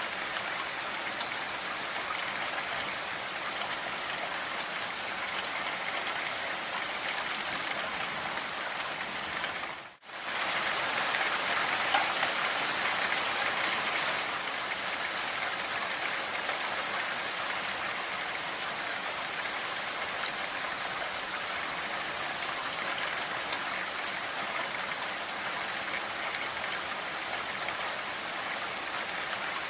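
Steady rain falling, an even hiss of many drops. About ten seconds in it fades almost to nothing for a moment and comes straight back, a little louder for a few seconds.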